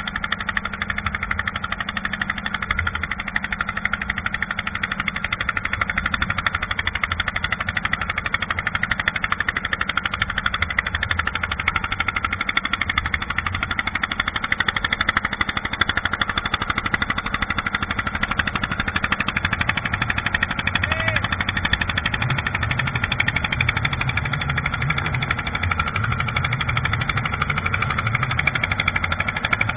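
An engine running steadily at a constant speed, with a rapid, even pulse.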